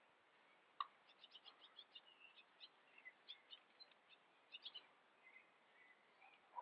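Small songbirds chirping and twittering faintly, a scatter of quick high notes and short trills. There is a single sharp click a little under a second in.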